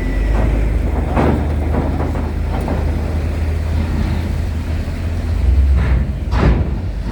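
Heavy vehicles running with a steady low rumble, with a few sharp knocks about a second in and twice near the end.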